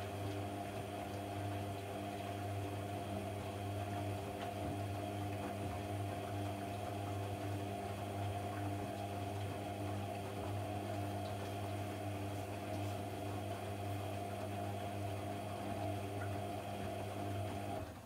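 AEG Lavamat 1400 washing machine running: a steady electric hum with watery sounds, which cuts off suddenly at the very end.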